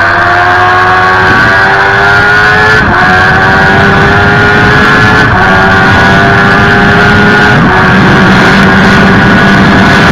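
Suzuki GSX-R 750 K6's inline-four engine at full throttle, accelerating hard: the pitch climbs steadily in each gear and drops at each of several quick upshifts, about every two seconds, over a steady rush of wind noise.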